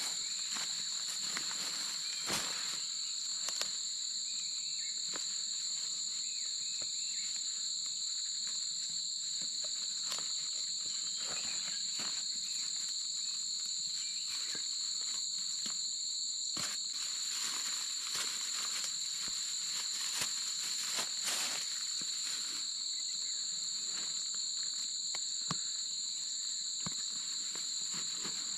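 Steady, high-pitched insect chorus: a continuous shrill drone on two high pitches, with scattered clicks and rustles over it.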